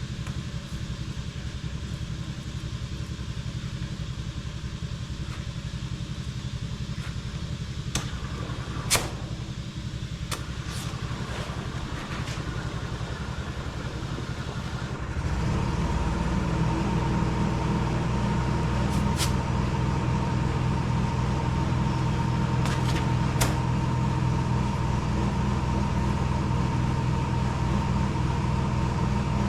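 An engine runs steadily. About halfway through it gets louder and heavier and a steady higher tone joins it, and a few sharp clicks and knocks come in the quieter first half.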